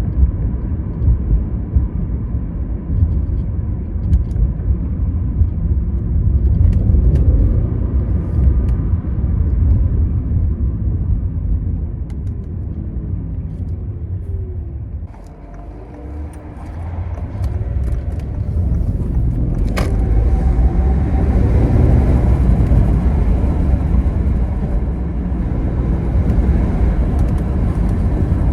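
A 2014 Audi A8 L with its twin-turbo 4.0-litre V8 driving, a heavy steady rumble of engine and road noise. About halfway through the engine note falls and the sound dips as the car slows, then the engine note rises again and a hiss of tyre and wind noise builds as it picks up speed. A single sharp tick comes a little after that.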